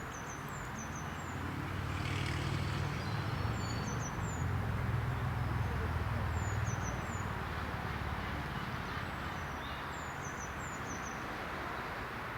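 A small songbird repeating a short phrase of very high, quickly falling notes about every three seconds, over a steady traffic rumble that swells as a vehicle passes in the middle.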